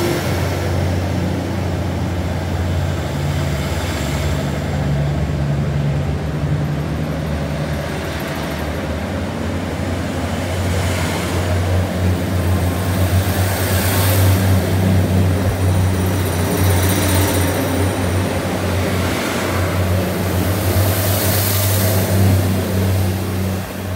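Tze-Chiang express train pulling out of the station, its diesel engine running with a steady low drone that grows louder about halfway through, with high thin ringing from the wheels on the rails.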